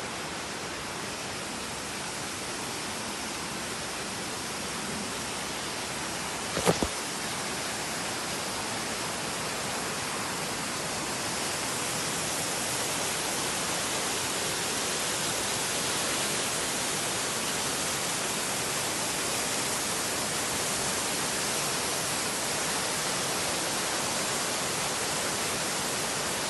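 Steady rushing noise, growing a little louder partway through, with one sharp knock about seven seconds in.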